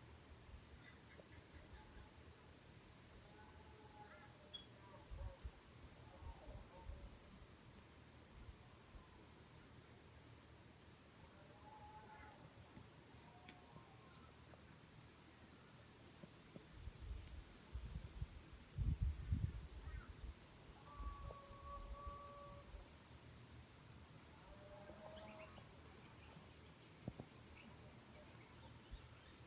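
Evening insect chorus: a steady, high-pitched chirring that never lets up. Scattered short bird calls sound over it, and a brief cluster of low thumps comes about two-thirds of the way through.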